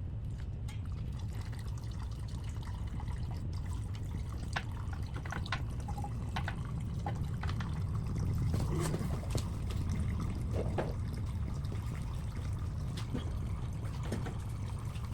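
Gasoline trickling and dribbling out of the Ryobi pressure washer's disconnected fuel line as the tank drains, with a few small clicks of handling here and there.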